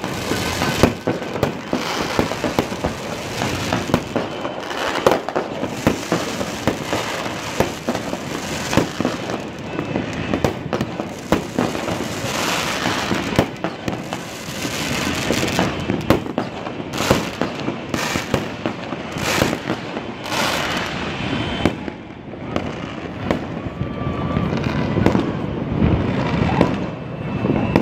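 Many fireworks going off at once across a city: a continuous din of overlapping bangs and crackling, with frequent sharper reports standing out. The barrage eases a little about two-thirds through, then builds again.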